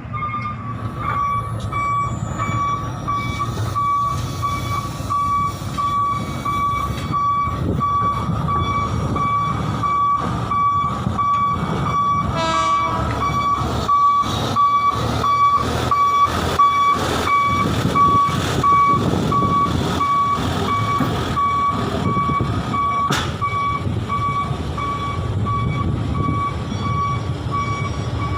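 A heavy vehicle's back-up warning beeper sounding over and over in an even, quick rhythm, over the low rumble of its diesel engine. A brief rattle of clicks comes about halfway through, and a single sharp click later.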